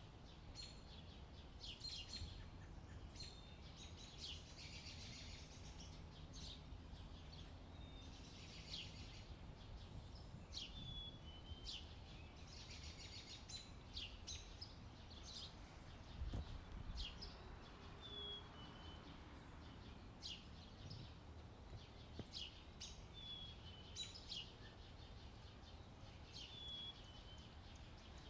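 Small birds chirping and calling, with many short high chirps and brief falling notes, over a faint steady low rumble of wind. A single soft thump sounds about halfway through.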